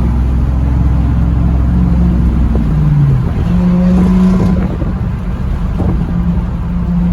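Car engine running with a steady low drone that dips in pitch about three seconds in and then picks back up.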